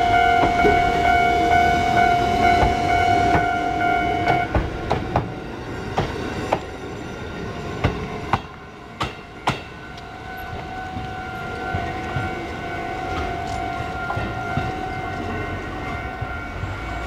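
Kotoden 1200-series electric train passing close by at a level crossing, its wheels clacking over the rail joints while the crossing alarm rings. The alarm stops about four seconds in as the train clears, a string of sharp wheel clacks follows as it runs away, and a fainter ringing tone returns near the middle.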